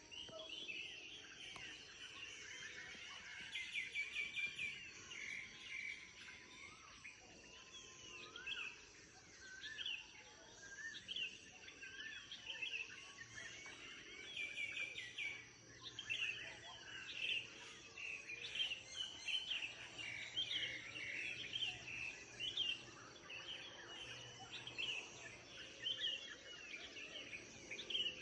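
Songbirds in a morning chorus, many short overlapping chirps and whistled calls, some at a time, with a faint steady background hum.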